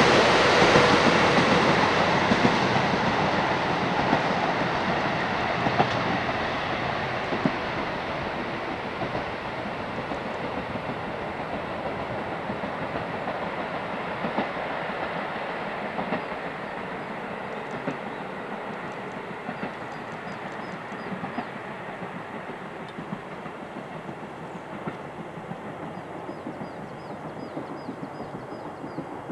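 Diesel train running away along the line, its wheel noise and clicks over the rail joints fading steadily into the distance.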